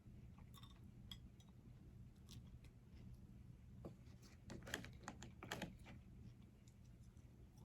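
Faint, scattered clicks and crackles from eating and handling food, with a short cluster of them about halfway through, over otherwise near silence.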